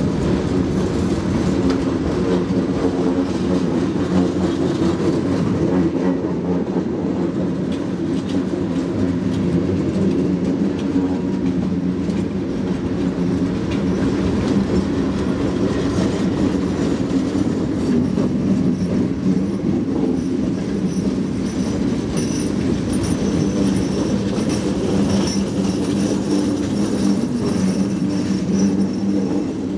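Freight cars rolling slowly past, steel wheels clacking over the rail joints, with a faint high wheel squeal in the second half.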